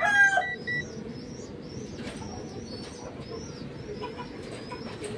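Birds calling in the background: a long pitched call trails off in the first second, then high chirps repeat about twice a second.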